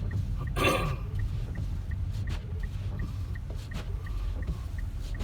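Steady low road and engine rumble inside a moving car's cabin, with a faint regular ticking about two and a half times a second and a brief noisy rush under a second in.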